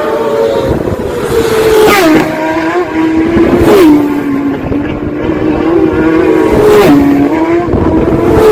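Racing motorcycle engine running hard at high revs, its note jumping in pitch several times as gears change, over rushing wind and road noise.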